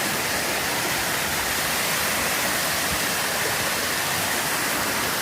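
Steady rush of a natural waterfall, a dense even roar of falling water with no pauses or changes.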